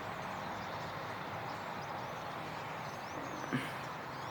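Din of a large flock of birds calling at once, a steady wash of chatter with a few faint higher chirps, and one brief louder sound about three and a half seconds in.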